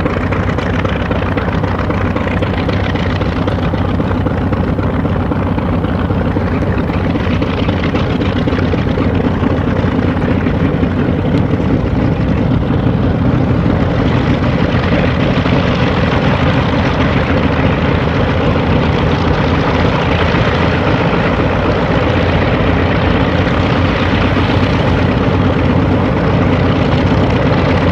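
Martin Mars flying boat's four Wright R-3350 radial piston engines and propellers running steadily at high power, a loud even propeller-aircraft sound with no change in pitch.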